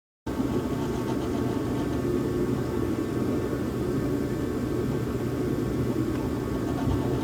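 Old Craftsman drill press running steadily while it spins a Cratex abrasive to jewel (engine-turn) a metal part. It starts abruptly just after the beginning.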